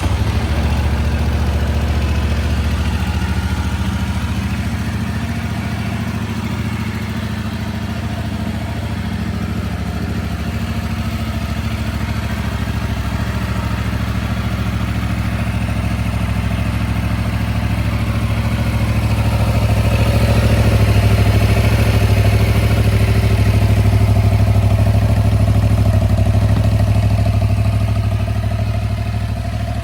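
Yamaha R7's parallel-twin engine idling steadily, growing a little louder about two-thirds of the way through.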